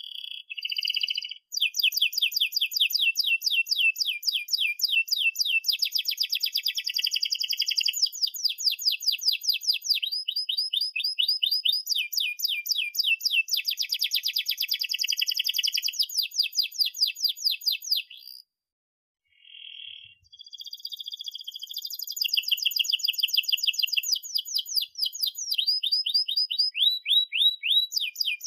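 Domestic canary singing a long song of fast trills and rolls, rapid strings of repeated high notes changing from phrase to phrase. The song stops for about a second and a half roughly two-thirds of the way through, then starts again.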